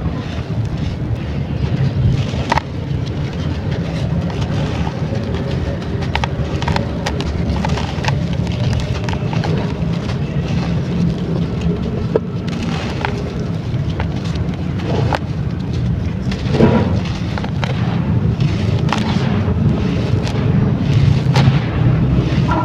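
Crumbly brown sand-clay being broken and dipped in water close to the microphone: a continuous low, rumbling crunch with scattered sharp cracks, the strongest about seventeen seconds in.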